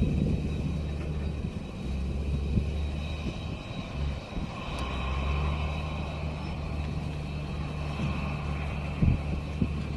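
Boeing 747 jet engines running: a steady high whine over a low rumble, growing a little louder about five seconds in.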